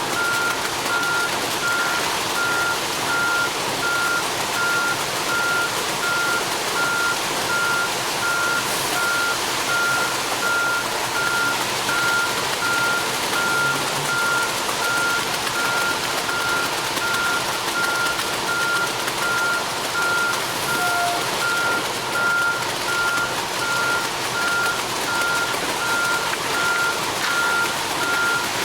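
Reversing alarm of a ready-mix concrete truck beeping at one steady pitch, over constant background noise.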